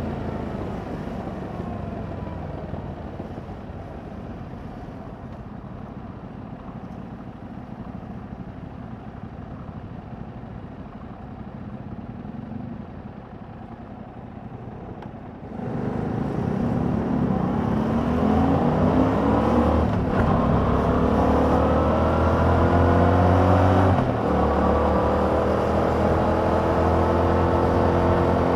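Yamaha MT-07's 689 cc parallel-twin on its stock exhaust, heard from the bike: revs falling on a closed throttle for about fifteen seconds, then the throttle is opened sharply and the engine pulls hard with rising pitch, an upshift briefly interrupting it near the end before it climbs again.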